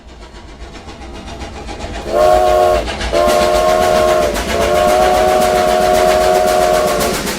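Train sound effect: a low rumbling approach that grows louder, then a chord train whistle blowing three times, two shorter blasts and a long one, each sagging in pitch as it ends.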